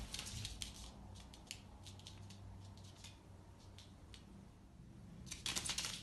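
Crinkling and rustling of a foil snack wrapper and light scrabbling of claws on a laminate floor as a squirrel grabs, drags and tosses the wrapper; scattered crackles with a denser, louder burst near the end.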